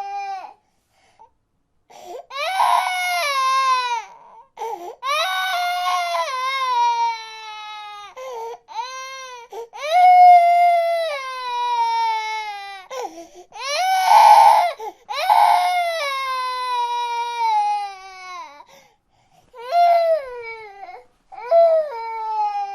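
Infant crying: a series of long wails, each sliding downward in pitch, broken by short pauses for breath, with a couple of cries turning rough and strained.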